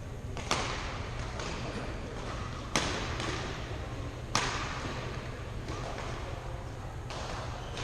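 Badminton rackets striking a shuttlecock in a rally: three sharp hits about two seconds apart, with a fainter fourth hit near the end, over the steady hum of a sports hall.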